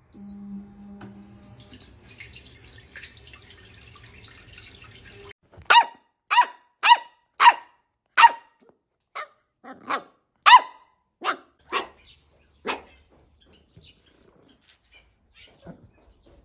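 A dog barking: about a dozen short, sharp barks, roughly two a second. They begin about a third of the way in, after a stretch of low hum and hiss, and stop before the end.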